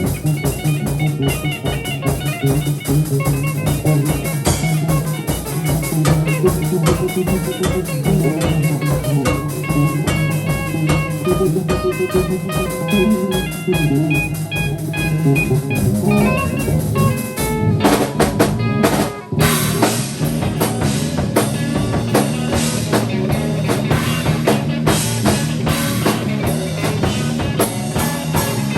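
An improvised band jam with a drum kit and guitar playing together. About two-thirds of the way through the texture changes, with a brief break before the drums pick up again.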